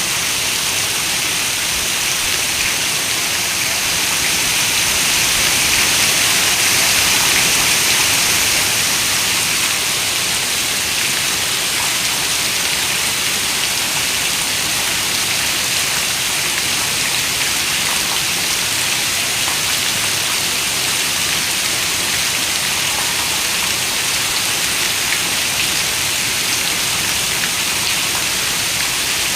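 Heavy rain falling as a steady, even hiss with dense raindrops, swelling slightly a few seconds in.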